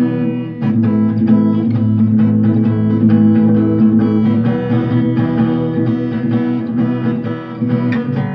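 Acoustic guitar played in a steady, fast strumming rhythm with sharp percussive strokes, knocks on the guitar that mix in with the chords.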